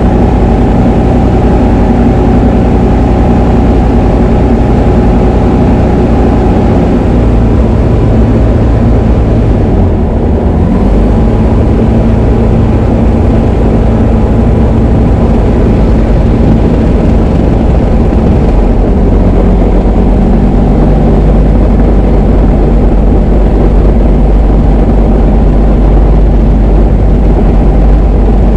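Diamond DA20 light aircraft's piston engine and propeller running steadily, its note shifting about ten seconds in and again about twenty seconds in.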